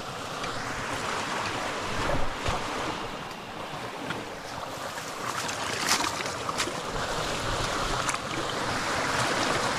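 Running stream water with scattered splashes and knocks from wading.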